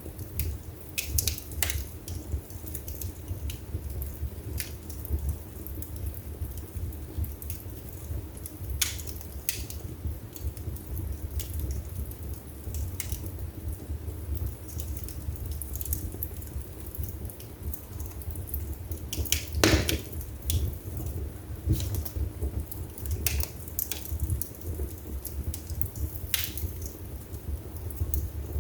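Wood fire burning in a fireplace: a steady low rumble of flames with irregular crackles and pops from the burning logs, one louder snap about two-thirds of the way through.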